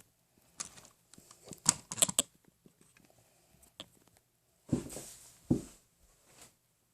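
Small plastic Lego bricks being handled: a string of sharp clicks and taps, bunched around two seconds in, then two duller clattering knocks about five seconds in.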